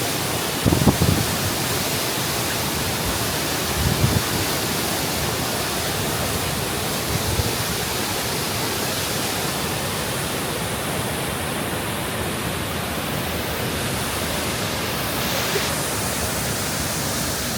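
Waterfall: a steady rush of falling water, with a few brief low thumps about one, four and seven seconds in.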